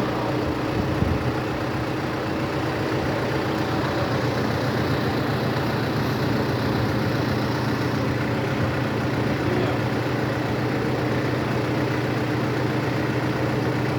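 Vehicle engine idling steadily, a low, even hum that holds the same speed throughout.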